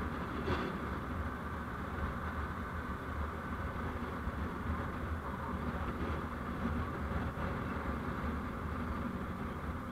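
Steady road and engine rumble of a moving vehicle, as picked up by a dashcam, with a brief click about half a second in.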